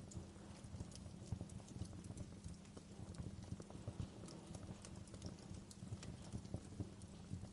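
Wood fire burning in a fireplace: firewood crackling with irregular sharp pops over a steady low rumble of the flames.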